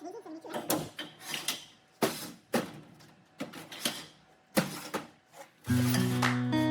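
Irregular knocks and clanks of steel pieces being handled, about a dozen in all; acoustic guitar music comes in, louder, near the end.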